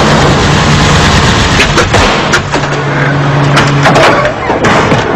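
A car engine running with a steady low hum, over a dense rush of noise and scattered sharp knocks.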